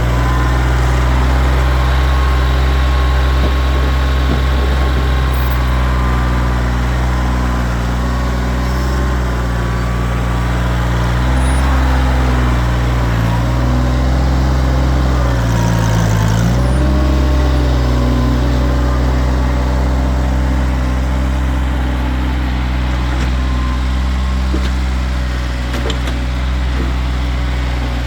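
Kioti tractor's diesel engine running steadily, dipping in pitch twice near the middle before settling back.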